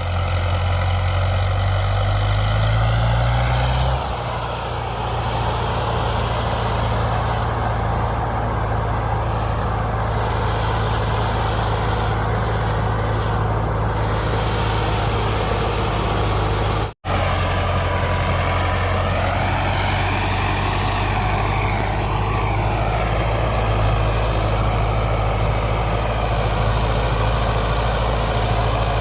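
Heavy diesel engines of a tractor and a loaded lorry working hard as the tractor pulls the lorry out of mud. The engine pitch rises over the first few seconds, then settles into a steady, loud run, with a sudden brief cut about two-thirds of the way through.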